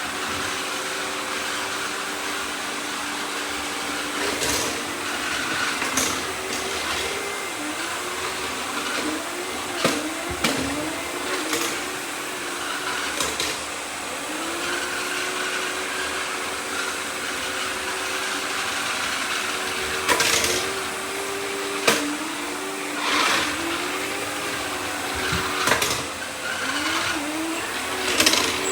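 Several robot vacuum cleaners running at once: a steady motor hum and whir whose pitch repeatedly dips and rises again, with occasional short knocks and clicks.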